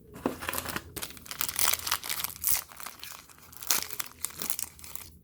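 A trading card pack's foil wrapper being torn open and crinkled by hand, a dense run of irregular crackles with a brief pause near the end.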